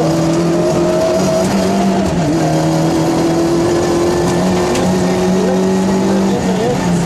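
Rally car engine running hard at high, fairly steady revs, heard from inside the cabin, with short breaks in the engine note about two, four and a half and six and a half seconds in as the driver changes gear.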